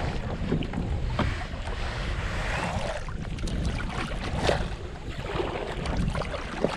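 Kayak paddles dipping and splashing in river water at an irregular pace, with wind buffeting the microphone.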